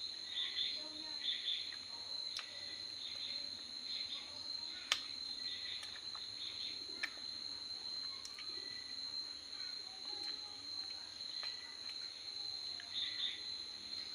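Insects trilling in a steady high-pitched drone, with repeated short chirping pulses over it and a few sharp clicks, the loudest about five seconds in.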